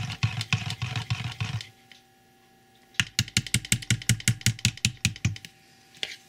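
Hand stirring in a mixing container, likely cold process soap batter, the utensil clicking against the container about five times a second. There are two spells of stirring with a short pause between them.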